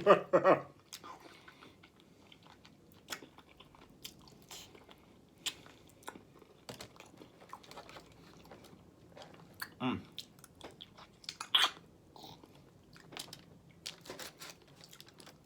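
A person chewing and biting food close to the microphone, with wet mouth clicks and smacks and a few louder bites, including one about ten seconds in and another about eleven and a half seconds in.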